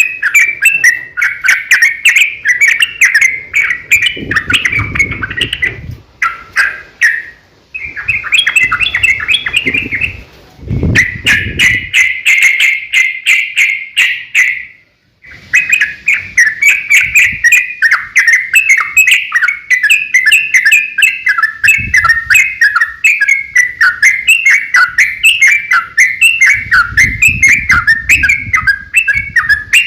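Yellow-vented bulbul (trucukan) singing a long, rapid, continuous run of chattering notes, the 'ropel panjang' song used to provoke other bulbuls into answering. The song breaks off briefly a few times and pauses for about a second halfway through.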